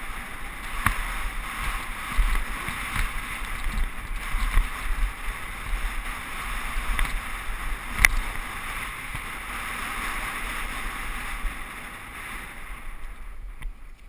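Mountain bike rolling fast down a dirt trail: a steady rush of tyre and wind noise, broken by sharp clicks and knocks from bumps, the loudest about eight seconds in. The rush dies away near the end.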